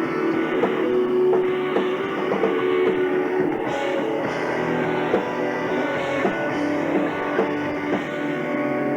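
Live rock band playing, with guitar to the fore and a steady beat.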